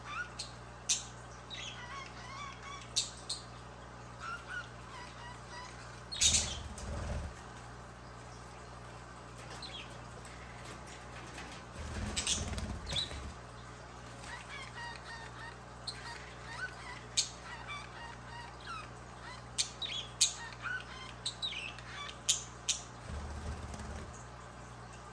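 Budgerigars chirping and chattering in short squeaky calls and sharp clicks, on and off throughout. Three brief low flutters or rumbles come about a quarter, a half and nine-tenths of the way through.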